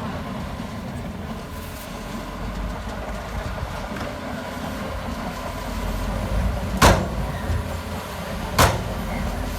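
Heavy diesel engine of earthmoving equipment running steadily with a low rumble, with two sharp bangs about seven and eight and a half seconds in.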